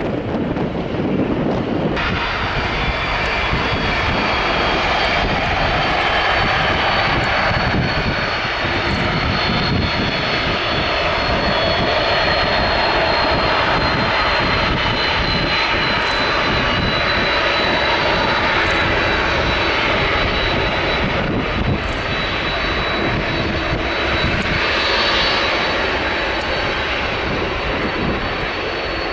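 Jet airliner engines running at high thrust, as for a take-off: a loud, steady rush of engine noise with a high fan whine that drifts slowly lower. It comes in suddenly about two seconds in, after wind on the microphone.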